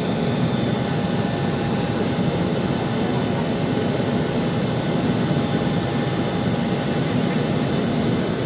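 Jet aircraft noise: a steady, unchanging rush with faint constant whining tones over it.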